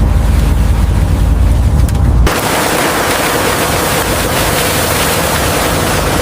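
Loud sea and boat ambience: a deep, steady rumble that cuts off abruptly about two seconds in, followed by a steady rushing hiss like wind or spray.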